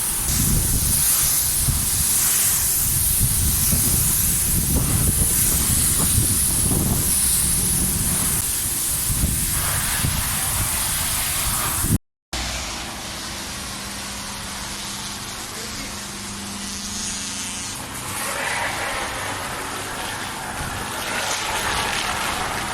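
Water from a high-pressure hose spraying onto a car's bodywork: a loud steady hiss with a low rumble under it. After a sudden break about halfway, the spray carries on quieter, with a low steady hum for a few seconds.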